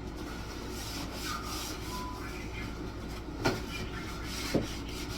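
Kitchen cleaning noises over a steady low hum: items being handled and wiped, with two sharp knocks about three and a half and four and a half seconds in.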